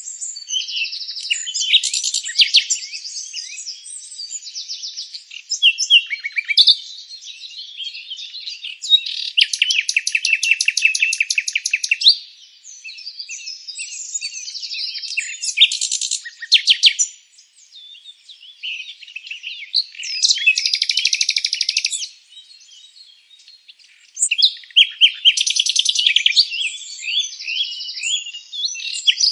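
Several songbirds singing at once: overlapping chirps, whistles and fast trilled phrases, with a couple of brief lulls.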